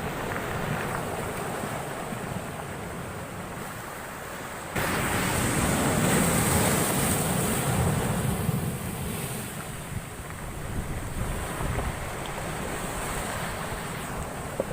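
Heavy storm surf pounding the shore, with wind buffeting the microphone. A big wave breaks suddenly about five seconds in, and its rush stays loud for several seconds before easing.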